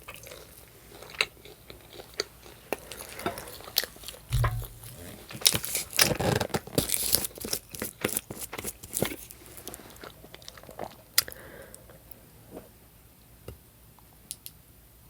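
Close-up chewing and biting of ribeye steak: wet mouth clicks and smacks, busiest in the middle, with a short low bump about four seconds in.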